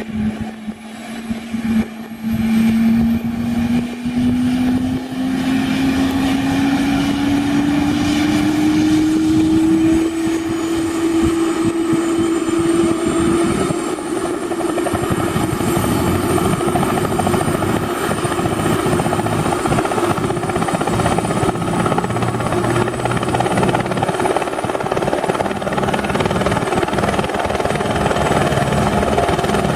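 Eurocopter AS350 Esquilo helicopter flying close by, its rotor noise swelling over the first few seconds and then holding steady. A strong engine tone rises steadily in pitch over the first dozen or so seconds.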